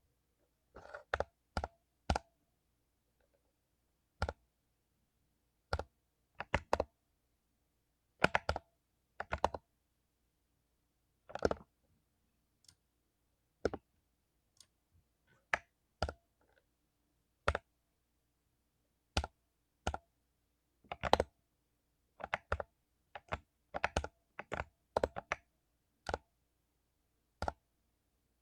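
Mechanical keyboard with lubed Cherry MX Silver linear switches, keys pressed one at a time and in short clusters of two or three, with gaps of a second or two between. The keystrokes come faster near the end.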